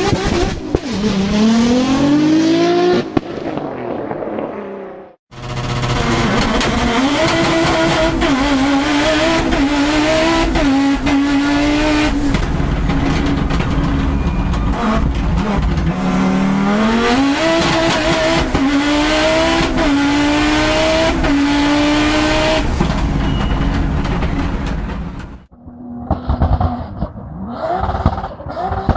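Turbocharged car engines accelerating hard in several separate clips. The longest clip has the engine pitch climbing and then dropping back again and again as the car shifts up through the gears.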